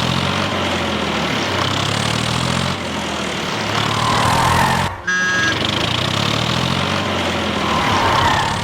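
An engine runs steadily. About five seconds in the sound breaks off for a moment with a short beep, then carries on.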